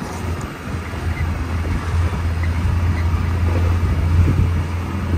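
Maruti Gypsy 4x4 moving slowly over a snow-covered road, heard from inside the cabin: a steady low engine drone with tyre and road noise over it, growing a little louder near the end.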